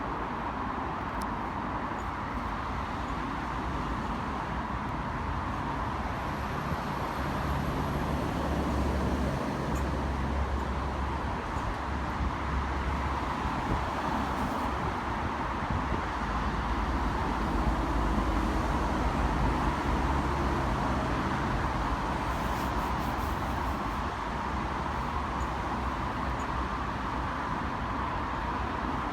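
Steady diesel railcar rumble with rail and background noise, from an NI Railways Class 4000 diesel multiple unit approaching. A low engine note swells and fades twice, loudest around the middle.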